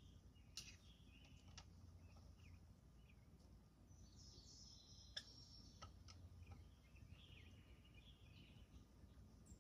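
Near silence, with faint bird chirps in the background and a few light clicks.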